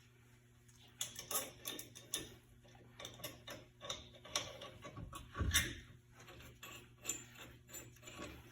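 Scattered light clicks and taps of hand tools working on a car's rear brake assembly, with one louder knock about five and a half seconds in.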